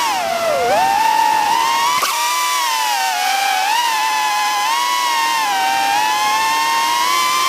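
Small drone's propellers whining as it flies, the pitch rising and falling with the throttle. The pitch dips sharply just after the start and recovers, and there is a brief click about two seconds in.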